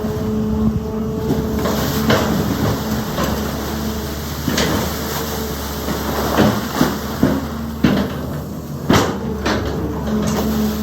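Sany excavator's engine running steadily, with a series of sharp knocks and clanks from the bucket and stones as it works.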